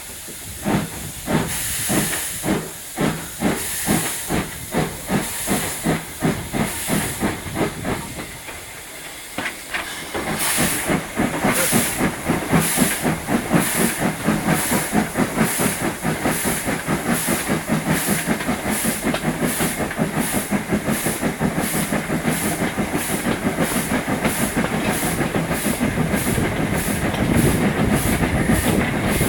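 Steam locomotive 47406, an LMS 'Jinty' 0-6-0 tank engine, chuffing as it pulls away, with steady hissing steam. The exhaust beats ease off briefly about a third of the way in, then come back louder and steadily quicken as the train gathers speed.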